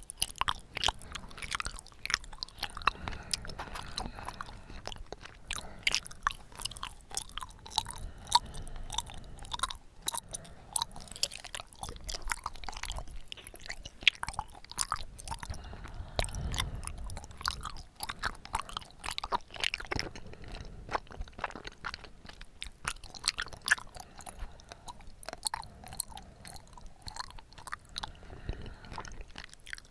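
Close-miked mouth sounds of chewing bubble tea's tapioca pearls: a steady stream of small, wet, irregular clicks and smacks.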